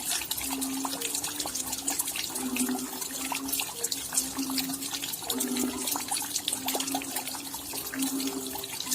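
Rain falling steadily, with a dense patter of individual drops ticking over a steady hiss, and short low tones sounding irregularly every second or so.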